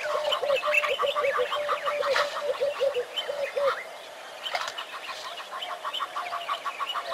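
Birds calling: a fast run of repeated low notes that stops about halfway through, over steady, rapid chirping.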